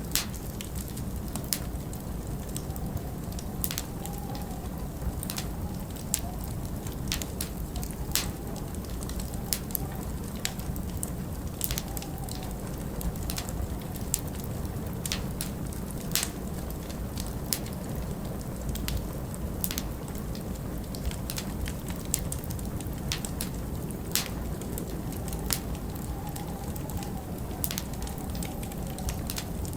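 Wood fire crackling, with irregular sharp pops and snaps, over a steady low rumble of storm wind that now and then rises into a faint wavering howl.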